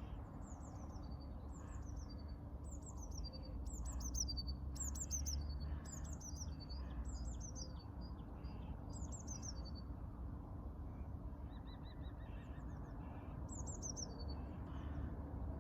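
Songbirds chirping: many short, high chirps that fall in pitch, repeated rapidly for most of the first nine seconds and again near the end. A low, steady rumble runs underneath.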